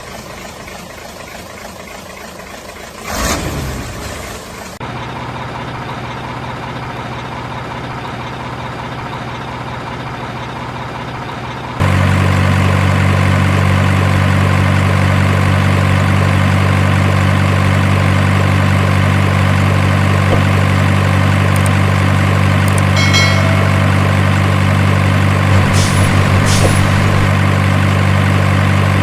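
Truck engine sound idling steadily at a constant low pitch, stepping up sharply in loudness about twelve seconds in and then holding steady.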